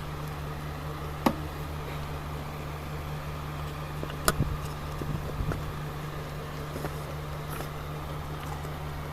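Steady low electrical hum, with a few sharp clicks about a second in and again around four seconds in.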